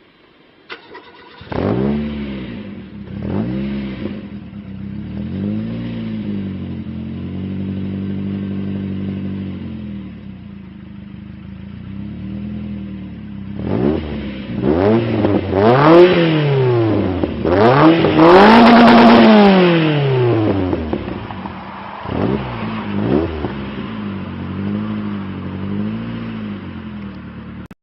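Renault 19 16V's four-cylinder engine through a modified aftermarket exhaust, free-revving while stationary. It comes in about a second and a half in, then is blipped repeatedly and held at higher revs, dropping back to a steady idle between. The highest, loudest rev comes about two-thirds of the way through.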